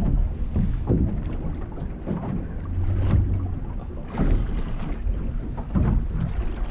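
Wind buffeting the microphone in an open boat at sea, a deep uneven rumble with gusty surges. A brief low hum about three seconds in.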